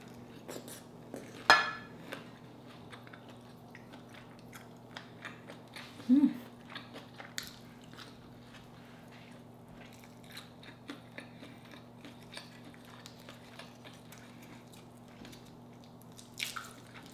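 Close-miked chewing of a mouthful of rice dipped in coconut sauce: soft wet mouth sounds and small clicks, with one sharp click about a second and a half in and a brief hum around six seconds in. Near the end, fingers work at peeling a cooked shrimp. A steady low hum runs underneath.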